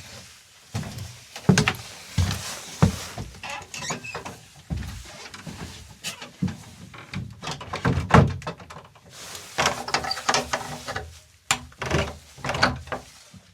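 An irregular series of knocks and thuds with rustling between them, the louder hits about a second and a half and eight seconds in.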